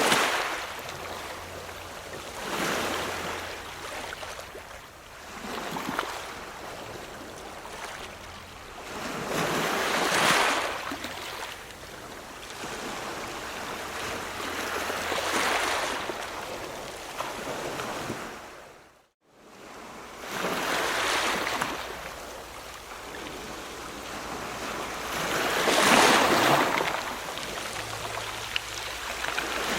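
Ocean waves breaking and washing in, swelling and fading in surges every four to five seconds. The sound drops out for a moment about two-thirds of the way through.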